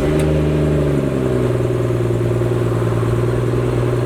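Stock BMW M140i's turbocharged 3.0-litre straight-six just after starting: the start-up flare falls away over about the first second and a half and settles into a steady idle through the standard exhaust.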